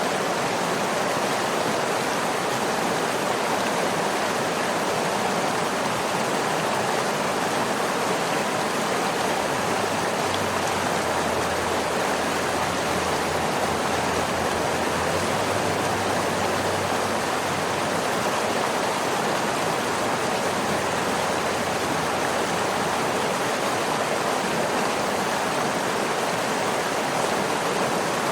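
Waterfall: water falling and rushing in a steady, unbroken hiss with no distinct splashes.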